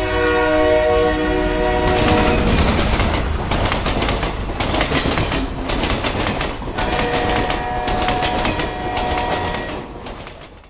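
A train horn sounds a held chord, then a passing train rumbles with wheels clattering over the rail joints. The horn sounds again for a few seconds in the middle, and the rumble fades out near the end.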